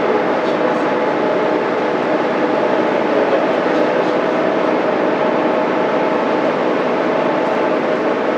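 Mitsubishi Fuso Aerostar bus's 6M70 straight-six diesel engine running steadily while the bus is under way, with road noise.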